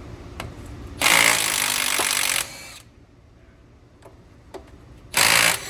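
Power tool spinning out the 10 mm triple-square bolts that hold the CV axle flange. It runs in two short bursts: one of about a second and a half starting about a second in, and a brief one near the end. Light clicks fall between them.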